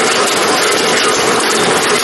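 Snack weighing and packaging machinery running: a steady, dense mechanical noise with the hiss and clatter of product moving through it.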